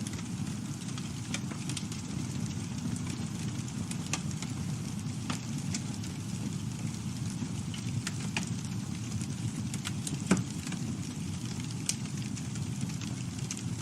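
Campfire burning: a steady low rumble of flames with frequent small crackles and pops, one louder pop about ten seconds in.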